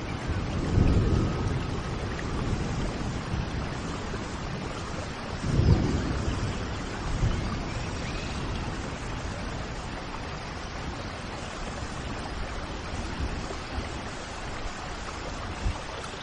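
Steady rain, with low rumbles of distant thunder about a second in and again around the middle. A few faint bird chirps sound over the rain.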